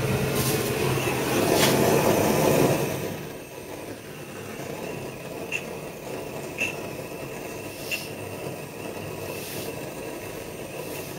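Gas soldering torch burning with a steady hiss, lit suddenly and strongest for the first few seconds before settling lower, as the pipe is heated to be tinned with solder; a few faint ticks near the middle.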